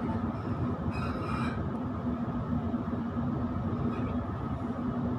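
Running noise of a Sydney suburban electric train heard from inside the carriage as it rolls slowly into the station: a steady rumble with a constant low hum, and a brief higher-pitched sound about a second in.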